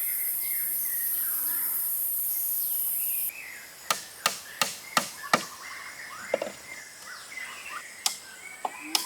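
Jungle ambience: a high, steady insect drone with birds chirping. The drone cuts off suddenly about a third of the way in. Then come five sharp knocks about a third of a second apart, and two more near the end.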